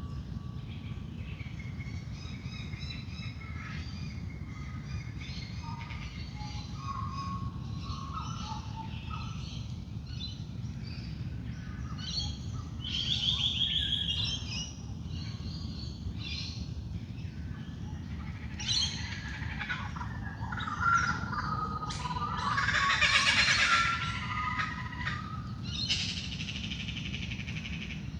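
Dawn chorus of many wild birds calling and singing at once, with short chirps and trills overlapping, and two louder bursts of calls about 13 and 23 seconds in. A steady low hum lies underneath.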